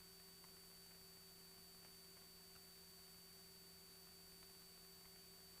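Near silence: a faint, steady electrical hum and hiss with no engine sound audible.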